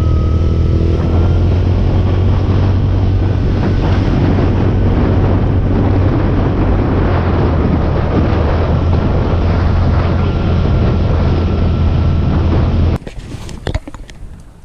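Motorcycle riding along, its engine running under heavy wind noise on the microphone. The sound cuts off abruptly near the end, leaving a few faint clicks and knocks.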